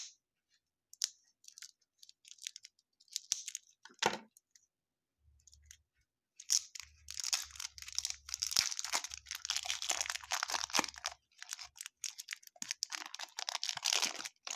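Baseball card pack wrapper being torn open and crinkled by hand. There are scattered crackles at first, then a long stretch of dense crinkling from about the middle to near the end.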